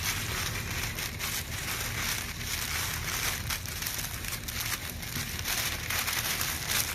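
Tissue paper rustling and crinkling with small crackles as it is folded over and over by hand.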